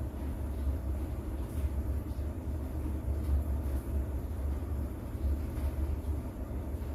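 A rain ambience track whose loudest part is a steady deep rumble, with faint soft patter above it.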